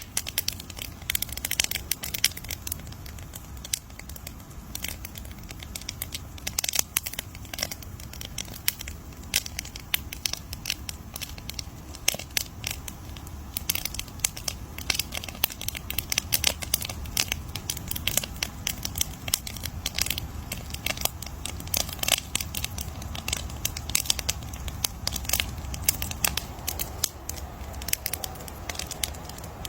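Campfire burning with dense, irregular crackling and popping of the wood over a steady low rumble of the flames.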